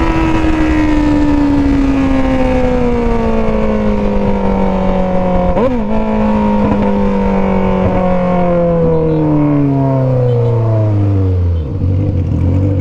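Motorcycle with an aftermarket 3-inch exhaust slowing down on engine braking, its revs falling steadily. There is a short jump in revs about halfway through, as from a downshift. Near the end the engine drops to a steady idle.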